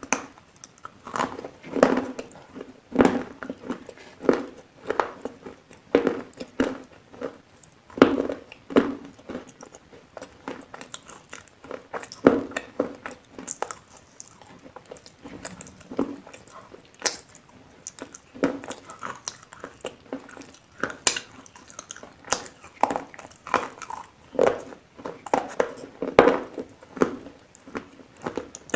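Food being bitten and chewed in big bites, a steady run of chews about once a second with sharp, clicky bites now and then.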